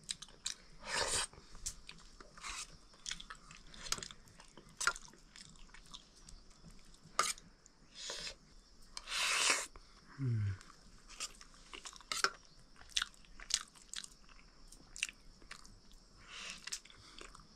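Close-up chewing while eating buckwheat dhido with potato curry: irregular mouth smacks and small clicks, with a few longer wet smacks. A brief falling vocal sound comes about ten seconds in.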